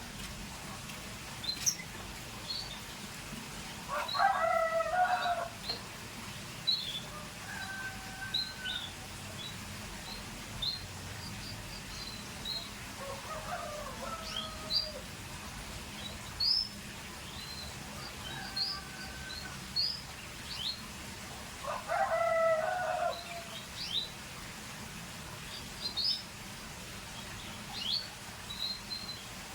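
Canary chirping: short, high calls scattered throughout. A louder, lower call from another bird comes back every four or five seconds, and is the loudest sound.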